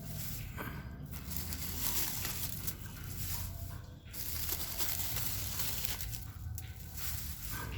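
Hands rustling, crinkling and tearing packaging while unwrapping a parcel of eggs, in irregular bursts of handling noise.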